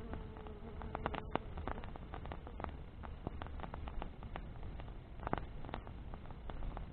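Wood bonfire crackling: irregular sharp snaps and pops, thick and uneven, over a low steady rumble of the burning fire.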